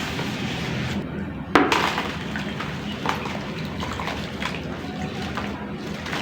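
Chunks of dry clay crumbling and breaking into water, a steady fizzing crackle with sharper cracks, the loudest about one and a half seconds in.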